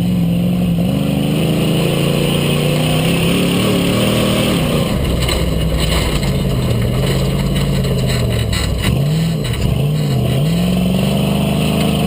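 Rock bouncer buggy's engine running under load and revving up and down. Its pitch climbs a few seconds in and drops back, then dips and picks up several times in quick succession near the end.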